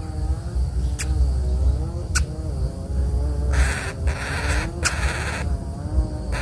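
A bird calling with a long, wavering, low-pitched call, heard over a steady low rumble. Two sharp clicks come early, and a bright hiss sets in just past halfway.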